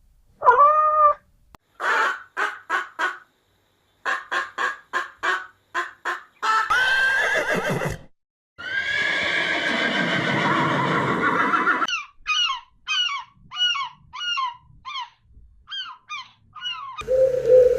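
Several different animal calls in quick succession. A short falling call comes first, then two runs of rapid pulsed calls, a brief call, a long harsh call lasting about three seconds, and a run of quick chirping notes.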